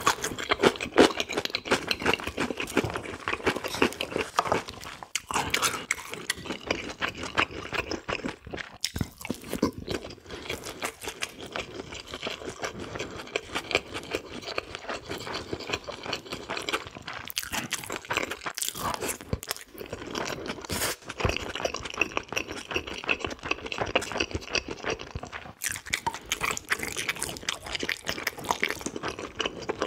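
Close-miked chewing and biting: continuous wet, crunchy mouth sounds of a person eating, with irregular smacks and clicks.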